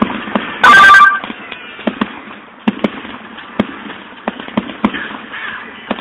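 Aerial fireworks bursting, with a run of sharp pops and crackles. About a second in, one very loud burst overloads the phone's microphone.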